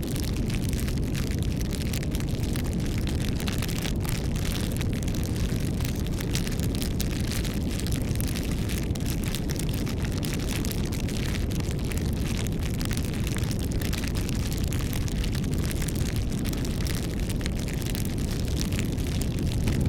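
Wood fire burning, with a steady low rumble of flame under constant irregular crackling and popping.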